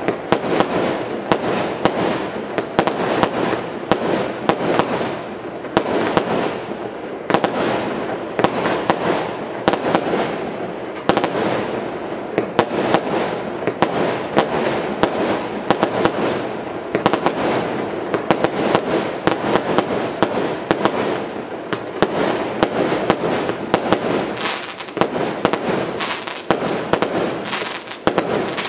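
Consumer fireworks battery (cake) of 0.8-inch shots firing continuously. Sharp launch reports and aerial bursts come in rapid, irregular succession with no pauses.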